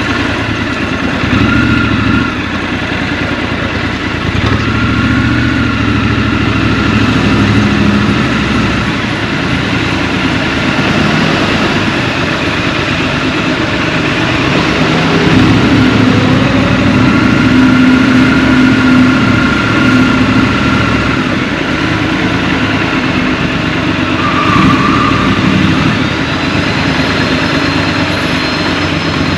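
Scrambler motorcycle engine running in city traffic, its pitch rising and falling as the throttle is opened and closed, with a louder stretch of acceleration around the middle.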